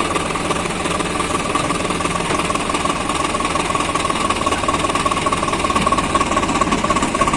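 Swaraj 742 XT tractor's three-cylinder diesel engine running steadily, with a steady high whine over the engine noise.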